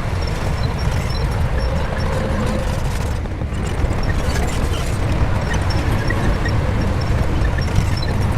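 Shantui bulldozer's diesel engine running steadily with a deep, continuous rumble, dipping briefly about three seconds in.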